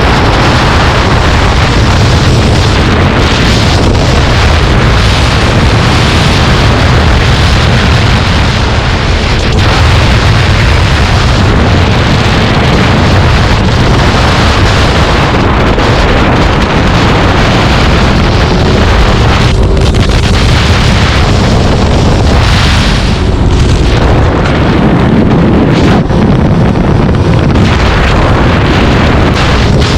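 Loud wind noise rushing over the microphone while travelling at speed, with a vehicle's engine running underneath.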